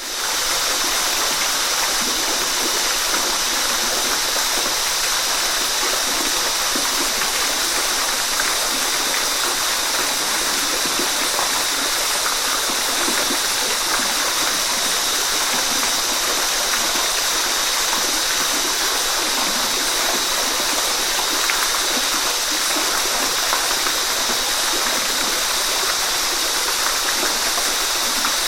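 Waterfall: a steady, even rush of falling water that fades in right at the start.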